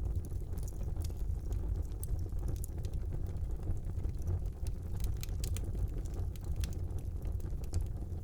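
Wood fire burning in a brick fireplace: a steady low rumble of the flames under sharp crackles and pops, which come thicker after about five seconds.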